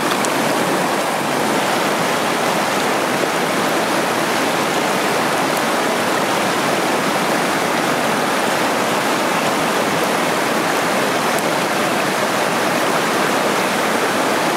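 Water of a rocky hill stream rushing and splashing steadily over small cascades.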